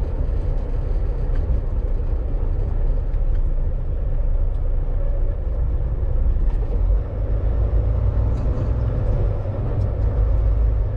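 Volvo VNL 860 semi-truck driving slowly: a steady low engine and road rumble.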